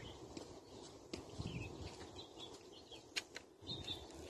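Faint bird chirps scattered through, over a low rumble, with a few sharp clicks about a second in and again past three seconds.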